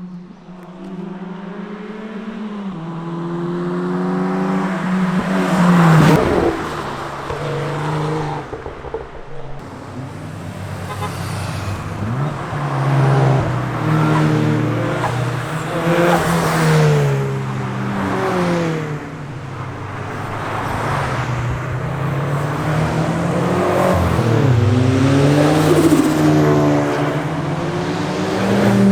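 Several performance cars driving past one after another, their engines revving up and dropping back as they accelerate and shift. The loudest pass comes about six seconds in.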